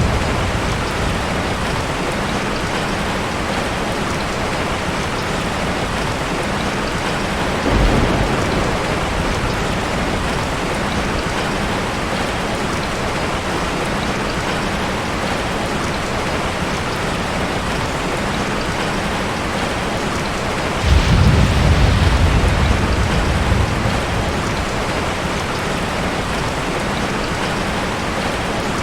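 Heavy rain falling steadily, with thunder rumbling low twice: briefly about a quarter of the way in, and longer about three quarters of the way in.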